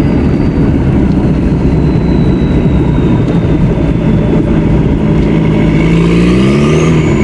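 The Volkswagen Jetta's 1.6-litre turbo-diesel engine running loud while the car is under way, heard from inside the cabin. Its steady drone rises in pitch near the end as the engine revs up, with a high whine climbing along with it.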